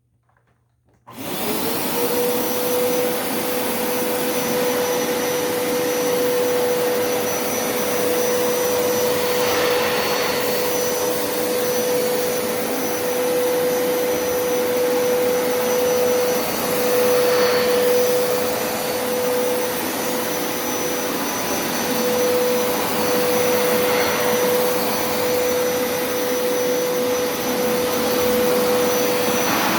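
Hoover upright carpet cleaner (water extractor) switching on about a second in and then running steadily, its motor giving a constant tone over a rushing suction noise.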